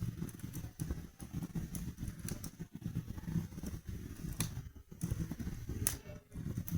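Wood fire burning in a fireplace: a steady low rumbling flutter of flames with scattered sharp crackles and pops.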